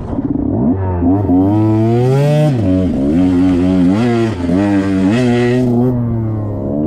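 2021 KTM 125XC's two-stroke single-cylinder engine revving up and down under riding, its pitch climbing and dropping several times with throttle and gear changes. A hiss rides over it through the middle few seconds.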